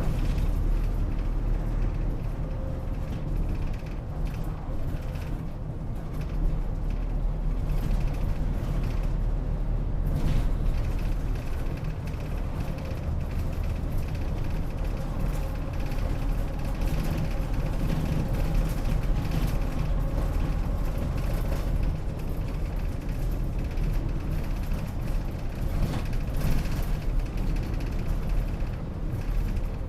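Gifu Bus route bus, heard from inside the passenger cabin while driving between stops: steady engine and road noise.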